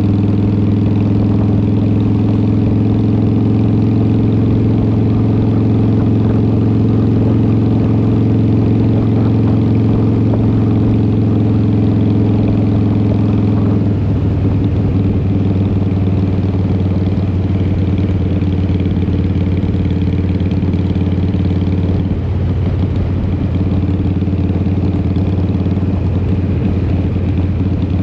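2003 Harley-Davidson Fat Boy's Twin Cam 88 V-twin running through Vance & Hines exhaust pipes while riding. The exhaust note is steady and shifts to a different pitch about halfway through, with a brief dip near the end.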